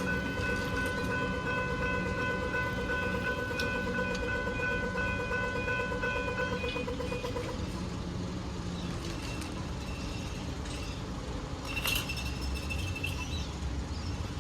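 A level crossing's General Signals electronic bell rings steadily over the rumble of a passing train, then stops about seven seconds in while the train runs on. There is a brief sharp clank about twelve seconds in.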